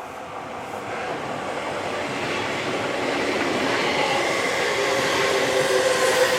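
Seibu 6000 series electric train running on the track, growing steadily louder as it nears, with whining motor tones over the rumble of the wheels.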